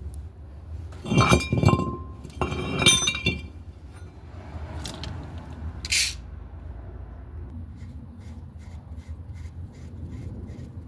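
Metal brake parts and hand tools clinking and clanking against each other: two bursts of ringing metallic clinks in the first three and a half seconds, then a couple of sharp clicks around five and six seconds in.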